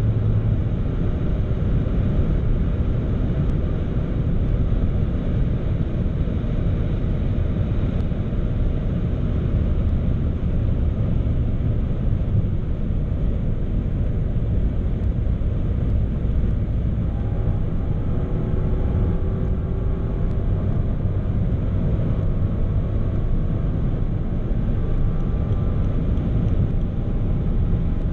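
Rolls-Royce Dawn driving at speed: a steady rumble of engine, tyre and wind noise with no gear changes or sudden events.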